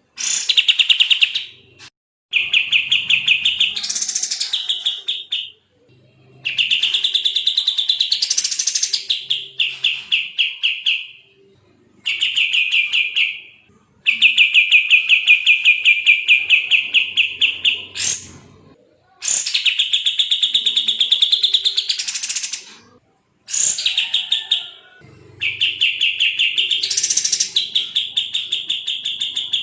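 A kapas tembak songbird singing in fast, tightly packed trills, repeated bouts of a few seconds each with short pauses between, some bouts rising in a quick upward sweep partway through.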